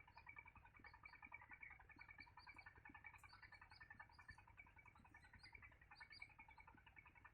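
Faint, rapid, continuous chirping of small birds, many short high notes in quick succession, typical of nestlings calling in the nest.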